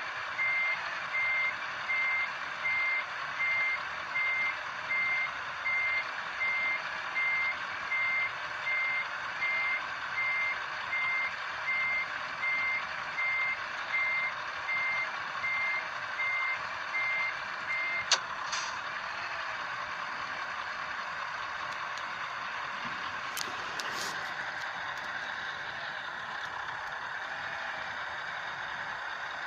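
Truck's reversing alarm beeping about once a second over a steady background hum. The beeping stops with a sharp click about eighteen seconds in, leaving the steady noise and a few faint clicks.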